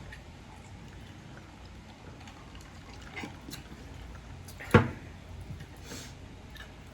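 Quiet sounds at a dinner table: scattered light clicks of eating and cutlery, with one sharp knock about halfway through.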